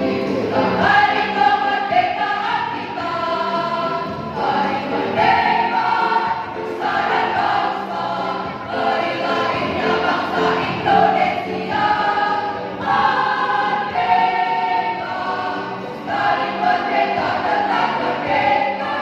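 Women's choir singing in phrases of held notes.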